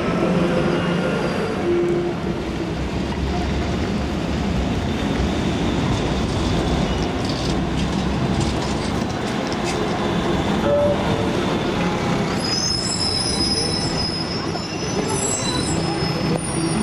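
Metrolink tram running on street track, its steel wheels squealing in high, shrill tones from about three-quarters of the way in, over a steady low hum.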